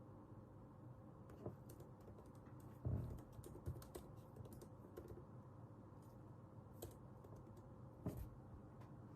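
Typing on a computer keyboard: a run of quick keystroke clicks starting about a second in and stopping near the end, with two heavier thumps among them.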